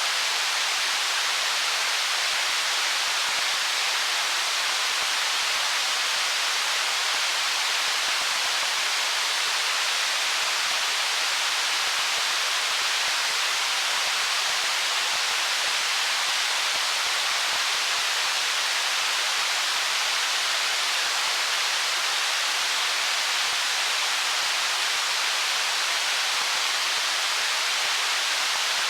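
Stream water flowing over stones: a steady, even rushing hiss that never changes, with little low rumble.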